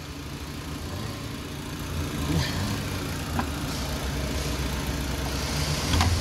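Renault 1.6-litre 16-valve K4M petrol engine idling steadily. A few light clicks come through as the oil filler cap is twisted off.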